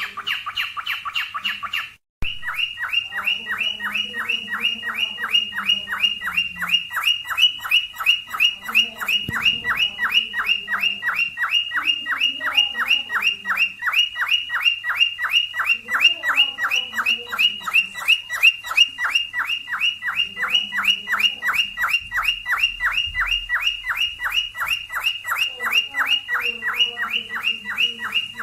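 Cockatiel mating call: a rapid, nonstop run of short, falling chirps, about four a second. It opens with a brief fuller call that cuts off about two seconds in.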